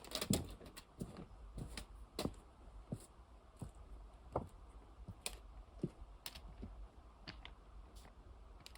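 A hiker's footsteps climbing steep off-trail ground of snow and rock: irregular crunches and clicks, one or two a second, over a low rumble.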